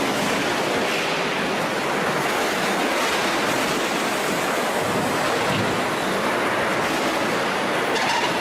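Steady, even hiss and rumble of factory machinery on a water heater tank production line, cutting off suddenly at the end.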